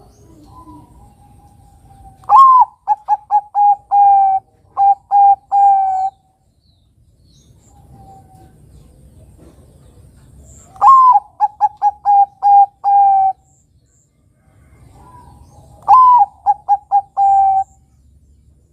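Zebra dove (Bangkok perkutut) singing three song phrases, each opening with a higher drawn-out note and breaking into a quick string of short cooing notes. The first phrase is the longest.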